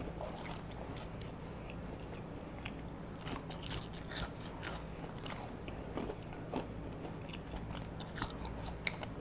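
Close-miked eating of McDonald's french fries: biting and chewing with irregular small crisp clicks and mouth noises, over a faint steady low hum.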